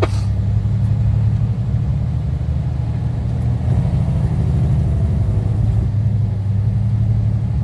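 Semi truck's diesel engine running steadily while driving, a continuous low rumble.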